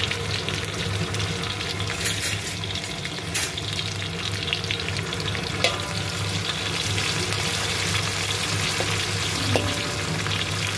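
Sliced onion, lemongrass and red chillies sizzling in hot oil in a wok, stirred with a spatula that gives a few sharp taps and scrapes against the pan.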